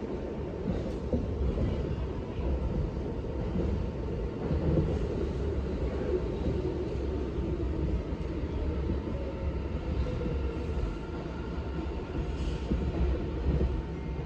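New York City subway train running, a steady low rumble.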